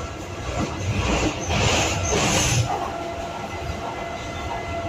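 Electric Docklands Light Railway train running, heard from inside the carriage: a steady low rumble with a faint steady whine. About a second and a half in, a louder rushing noise rises for about a second, then dies back.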